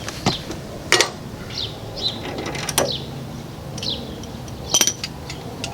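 Hand tools and brake parts being handled during a rear brake job: four sharp clicks and clinks spread over several seconds, the last one ringing briefly like struck metal. Birds chirp in the background.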